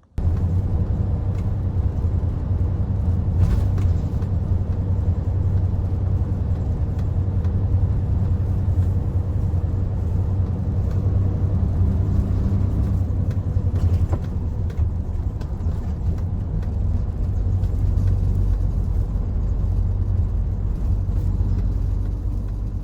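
Hino Profia heavy truck on the move, its diesel engine and drivetrain giving a steady low rumble.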